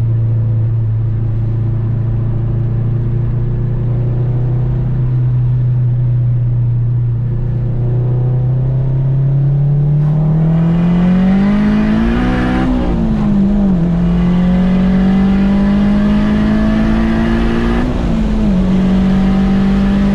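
Turbocharged Honda K20A2 four-cylinder engine of an Acura RSX holding a steady note for several seconds, then revving up under acceleration, with a quick drop in pitch about halfway through at a gear change before it pulls again.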